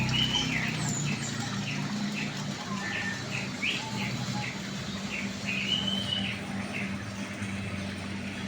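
Small birds chirping: a rapid series of short, high chirps, with a couple of longer notes, over a steady low hum.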